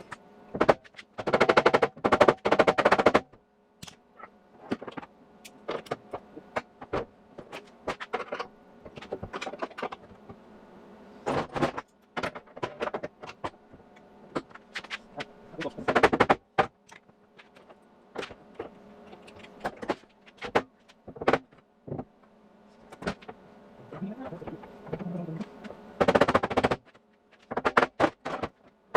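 MIG welder crackling on sheet steel: several short bursts of rapid crackle, each a second or two long, and single tack-weld pops in between, as the tail panel is plug-welded. A faint steady hum runs underneath.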